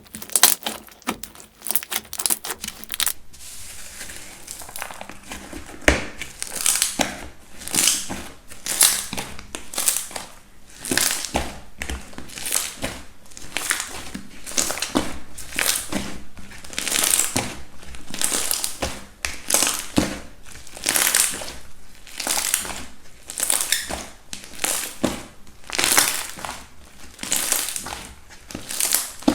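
Slime being pressed and squeezed by hand with crackly, crunchy textures. It starts with a quick run of crackling clicks, goes to a softer hiss for a few seconds, then settles into repeated squishes about once a second.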